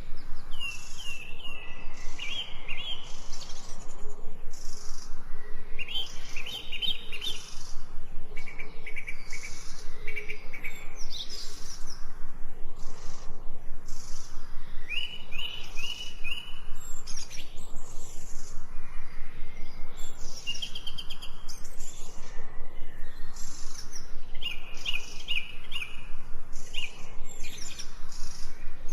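Songbirds singing in a forest, repeating short chirping, trilled phrases every second or two over a constant background with a fast, even pulse.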